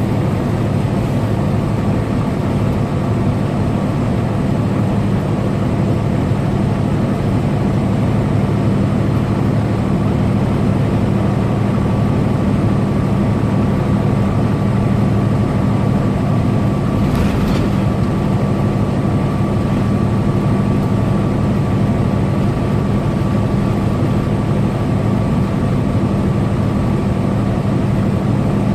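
Semi-truck engine and road noise heard from inside the cab while cruising on the highway: a steady, even drone. A short hiss comes about two-thirds of the way through.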